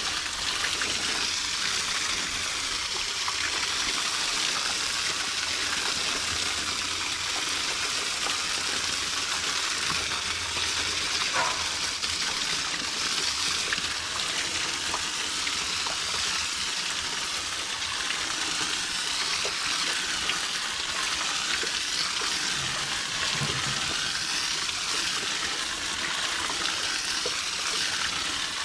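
Steady spray of water from a garden hose spray nozzle, an even hiss that holds unchanged throughout.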